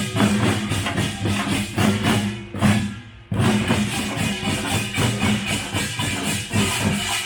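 Korean pungmul farmers' band playing live: drums beaten fast under the bright, clattering strikes of small gongs. The playing drops off briefly about three seconds in, then comes back in at full strength.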